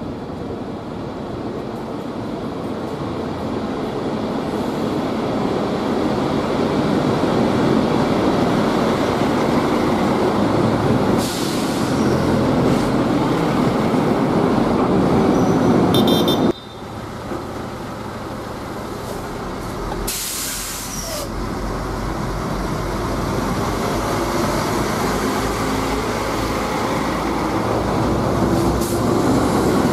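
A diesel-hauled railhead treatment train passing at speed: engine and wheels on the rails growing louder as it approaches, with brief loud hisses about eleven and twenty seconds in. The loudness drops sharply partway through, and a steady low engine drone carries on as the wagons and rear locomotive go by.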